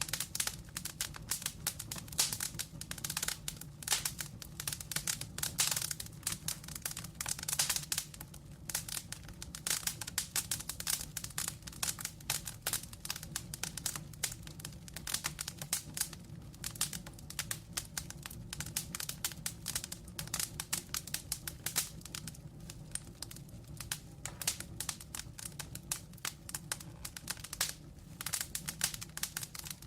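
Burning logs crackling in a fireplace: a dense, irregular run of snaps and pops over a steady low hum.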